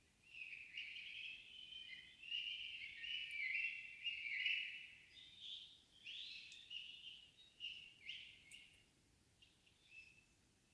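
Songbird singing in a quiet forest: a long, continuous run of song in the first half, then shorter separate phrases that thin out toward the end.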